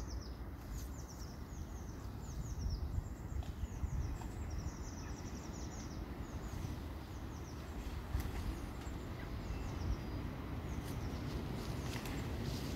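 Birds twittering in quick runs of high, falling chirps, over a steady low rumble.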